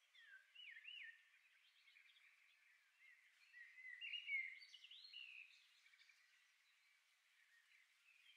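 Faint birds chirping: short whistled calls that rise and fall in pitch, a little louder about four seconds in.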